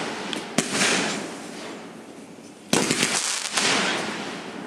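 Fireworks going off: a sharp bang about half a second in, followed by a crackling hiss that fades, then a second burst a little after halfway with more crackling that dies away.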